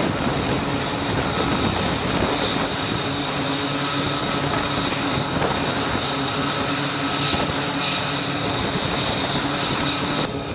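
Aircraft engines running steadily: a loud rush with several steady high whining tones over it. The sound drops suddenly just before the end.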